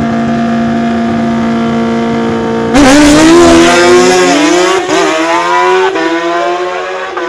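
Drag-racing motorcycles holding a steady high rev on the starting line, then launching about three seconds in with a sudden, much louder blast. The engines climb in pitch and drop back at gear shifts twice as they run down the track.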